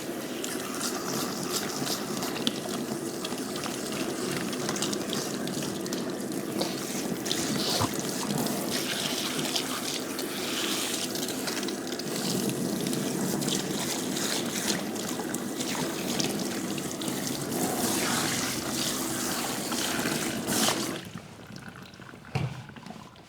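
Running water pouring and trickling steadily, shut off suddenly near the end, after which a couple of light knocks are heard.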